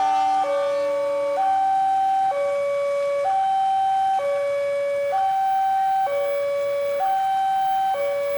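Railway level-crossing warning alarm sounding a steady two-tone high–low signal, switching pitch about once a second: the crossing is warning of an approaching train.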